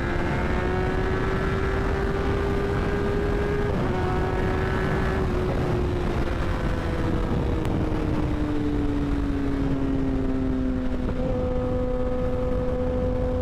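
Kawasaki Ninja ZX-10R sportbike's 1000 cc inline-four with an M4 slip-on exhaust, ridden at highway speed with heavy wind rush on the microphone. The engine note holds steady and climbs slightly for about four seconds, then falls slowly as the throttle comes off and settles low near the end.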